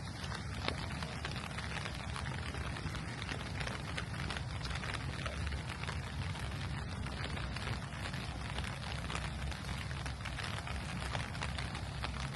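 Steady rain falling, with many small sharp drop hits scattered through it over a low steady rumble.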